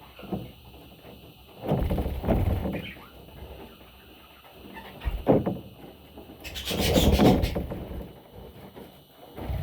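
Rubbing and bumping handling noises in bursts, with a sharp knock about five seconds in and a longer rustling scrape near the end.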